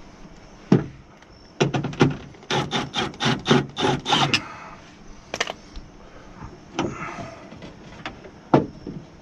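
Irregular knocks and clicks of hard parts inside a car door, as the window regulator track is worked into place to line up its bolt holes: one knock, then a quick run of about a dozen, then a few single clicks.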